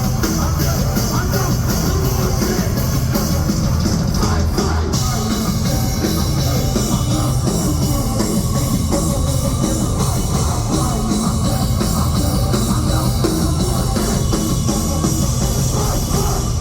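Loud live concert music over a PA: a heavy, distorted rock-style track with pounding bass and drums, recorded on a phone from the crowd.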